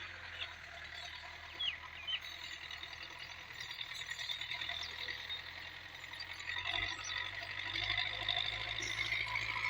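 Belarus 510 tractor's diesel engine running steadily as a low hum, under a louder high-pitched outdoor chorus, with a few short chirps about two seconds in.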